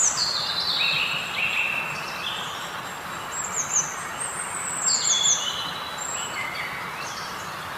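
Birds chirping: many short, high calls that glide downward, repeated in quick groups, over a steady rushing background.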